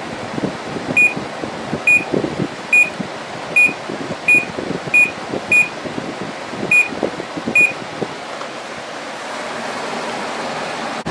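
Samsung window air conditioner's fan running while its electronic control panel beeps about nine times, short high beeps at uneven intervals, over the first eight seconds; then only the fan runs. The compressor has not yet come on, held back by the unit's startup delay.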